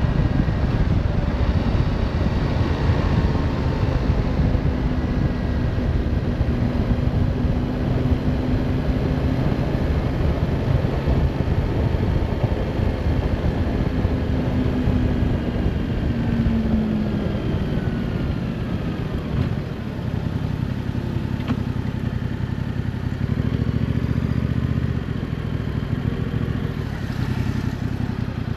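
Yamaha Tracer 7's 689 cc parallel-twin engine running as the bike is ridden, over a low rumble of wind noise. The engine note holds steady, drops about two-thirds of the way through as the bike slows, then carries on at a lower pitch.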